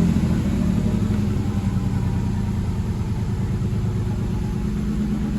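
Fiat Argo's Firefly engine idling steadily with an even pulse, shortly after a cold start.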